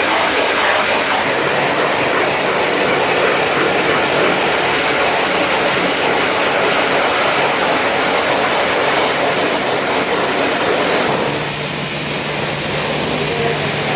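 High-pressure water spray washing a car's radiator and AC condenser, a loud steady hiss clearing mud and dust from the clogged fins. About eleven seconds in the spray thins and a steady low hum comes in.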